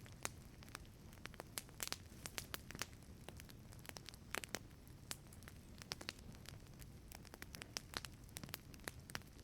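Wood fire crackling inside a wood-fired pizza oven: irregular sharp snaps and pops, several a second, over a low steady rumble.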